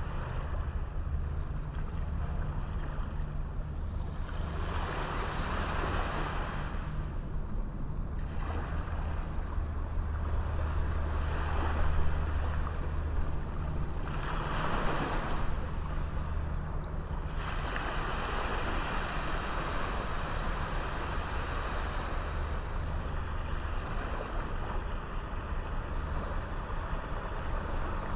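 Sea waves washing onto a small beach: several swells of surf come and go, and a longer wash builds a little past halfway. A steady low rumble runs underneath.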